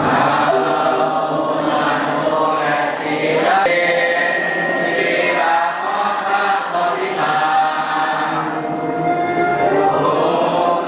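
Many voices singing together in unison, slow held notes that step to a new pitch every second or two.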